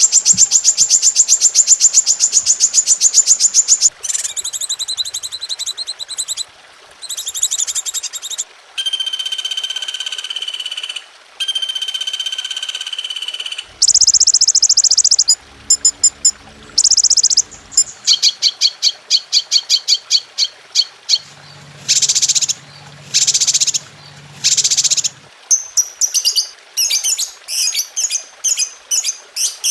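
A run of varied songbird calls spliced one after another: fast buzzing trills, steady whistled notes and rapid repeated chirps, each changing abruptly after a second or two. This is a 'masteran' song compilation of the kind used to teach caged songbirds new phrases.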